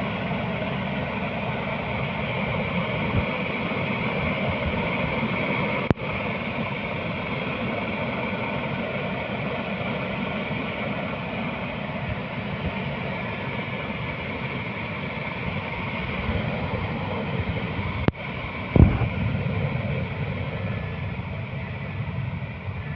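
Steady, continuous engine and rotor noise of a helicopter in flight, broken by two brief dropouts about 6 and 18 seconds in.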